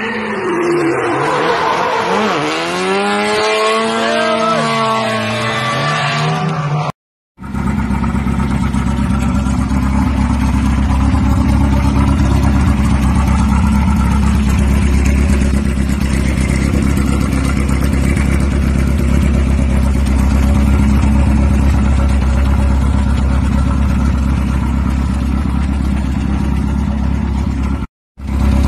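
A drift car's engine revving, its pitch rising and falling several times over the first seven seconds. After a short break, a classic Volkswagen Beetle's air-cooled flat-four engine idles steadily and low.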